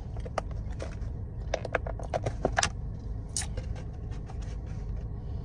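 Light clicks, taps and crinkles of takeout food packaging being handled, bunched together from about a second and a half in, with a sharper click a little later, over a steady low hum.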